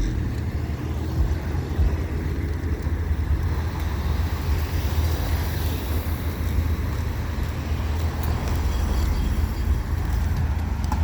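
Street traffic noise: a steady low rumble of vehicle engines, with the hiss of a passing vehicle swelling and fading around the middle.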